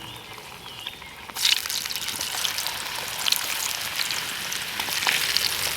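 Raw potato chips hitting hot cooking oil in a pan over a campfire: a loud sizzle starts suddenly about a second and a half in and keeps going with crackling spits as the batch fries.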